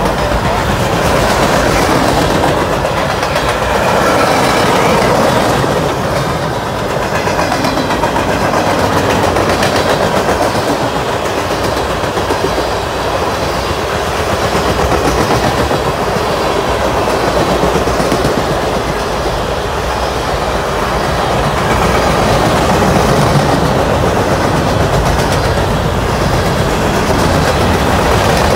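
Freight cars of a passing train rolling by: a steady rumble of steel wheels on rail, with repeated clickety-clack as the wheels cross rail joints.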